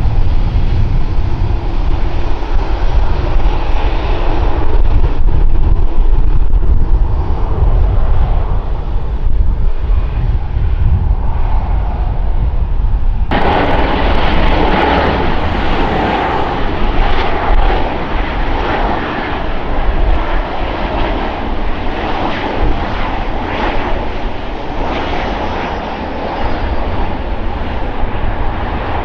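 Airliner engines roaring as a plane passes, with heavy low rumble from wind on the microphone. About halfway through the sound switches abruptly to a louder, brighter engine roar.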